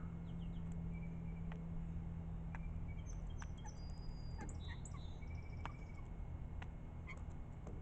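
Songbirds calling: scattered short chirps and clicks with a few thin whistled notes, over a steady low hum.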